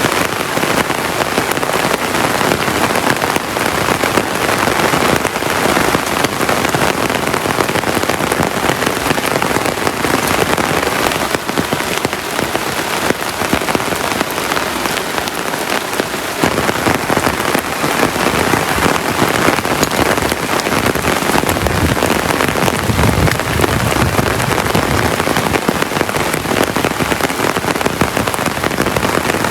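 Heavy tropical rain pouring steadily, a dense hiss of drops, with a low rumble swelling in the second half.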